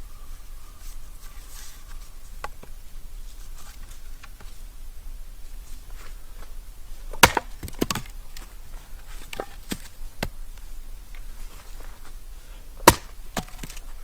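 Wood being chopped: sharp, separate knocks of a blade into wood. The loudest come about seven seconds in, as a quick double, and again near the end, with lighter knocks between.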